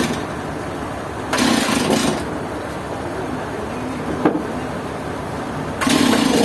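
Sawmill engine running steadily, growing louder and harsher for under a second about one and a half seconds in and again near the end, with a single sharp click in between.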